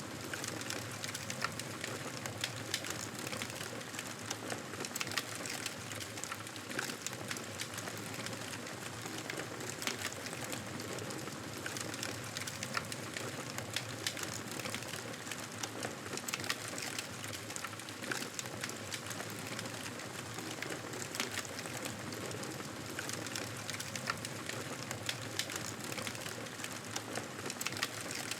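Wood fire in a fireplace crackling steadily, with many small irregular pops and snaps over a soft hiss.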